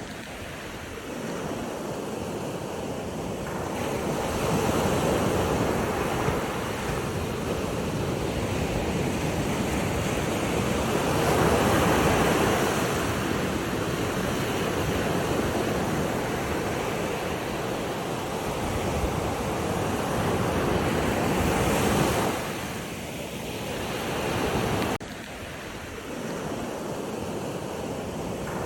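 Water rushing, swelling and easing in slow surges, with a sudden drop in level about 25 seconds in.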